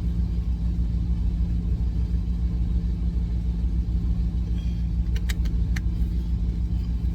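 Truck engine idling with a steady low rumble. A few light clicks come about five seconds in.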